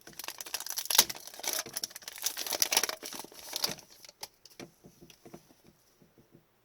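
Crinkling and rustling of trading-card packaging and cards being handled. This is dense for the first few seconds, then thins to a few light ticks.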